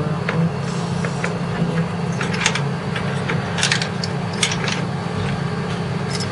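Scattered light clicks and knocks of plastic and metal parts being handled as a CPU cooler fan and heatsink are unclipped and lifted off a motherboard, over a steady low hum.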